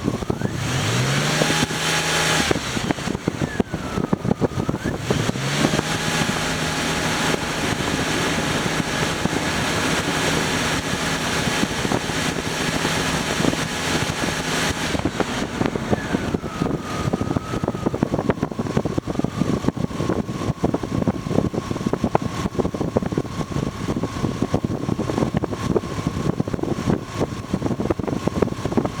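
2004 Mercury Mountaineer's 4.0L SOHC V6 being revved during an engine test: a quick blip about a second in, then a second rev held high for several seconds before it drops back to a steady idle.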